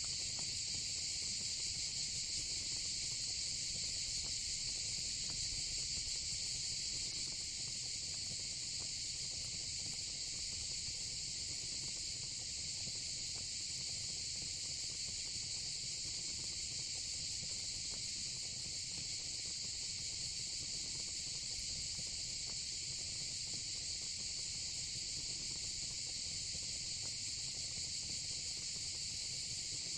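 Steady, high-pitched chorus of crickets, unbroken throughout, with faint crackling of a fire pit underneath.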